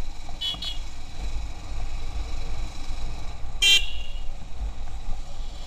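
Short horn toots over a steady low rumble of wind and motorcycle riding: two quick toots about half a second in, and a longer one about three and a half seconds in.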